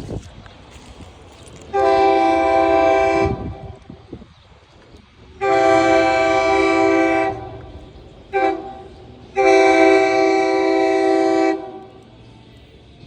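SEPTA Regional Rail train's horn sounding the grade-crossing signal: two long blasts, a short one, then a long one, a chord of several notes over the low rumble of the train.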